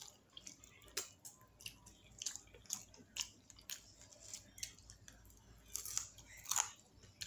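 A person chewing a hot chicken wing: soft, irregular, wet smacking and clicking mouth sounds, about two or three a second.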